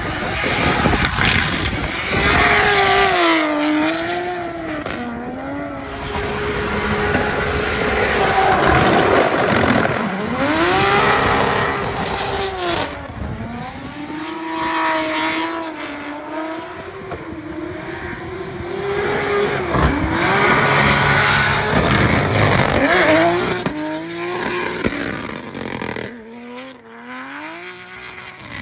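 Nissan Silvia S15 drift car with a 2JZ straight-six revving hard through drifts, the engine note rising and falling again and again, with tyres screeching and sharp anti-lag cracks from the exhaust. It drops quieter near the end as the car moves away.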